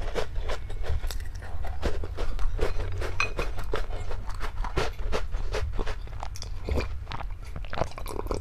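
Close-miked chewing and crunching of food, a dense run of short irregular crackles from each bite, over a steady low hum.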